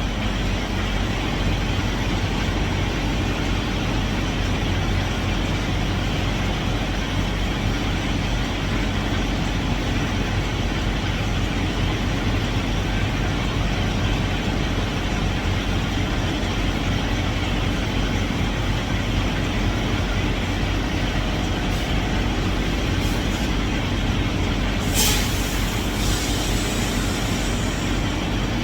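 Semi truck's diesel engine running steadily, heard from inside the cab. Near the end a sudden short hiss of air, typical of the truck's air brakes.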